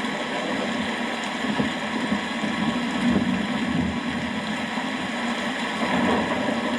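Steady rain, an even hiss with a low rumble underneath that swells a little about three seconds in and again near the end.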